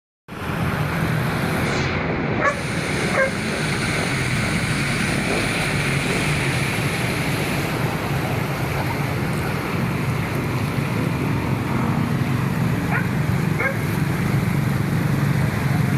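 Steady rushing noise of floodwater with wind on the microphone, and a constant low rumble underneath. A few faint ticks come through about two and three seconds in and again near the end.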